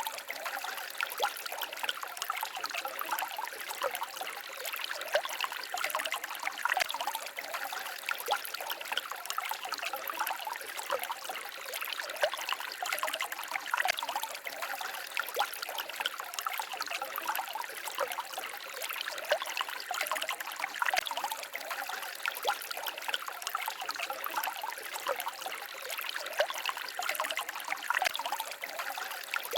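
A small forest stream babbling and trickling over stones, a steady wash of water with many small splashes and gurgles.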